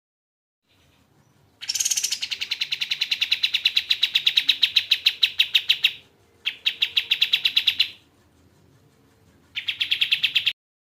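A kapas tembak songbird giving fast rattling trills of sharp, evenly repeated notes, about ten a second: one long trill of some four seconds, then a shorter one, then a brief one that cuts off abruptly near the end.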